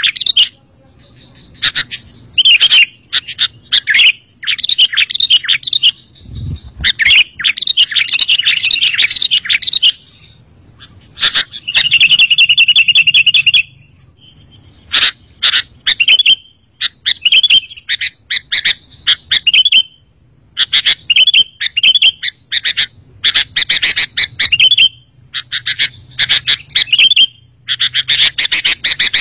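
Sooty-headed bulbuls calling in loud, repeated bursts of bright chirps with short pauses between them. About twelve seconds in there is a rapid, rattling trill.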